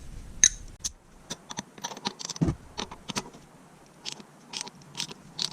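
Hand ratchet and spark-plug socket working a plug in the engine: a string of short, light metallic clicks, irregular and at times in quick little clusters.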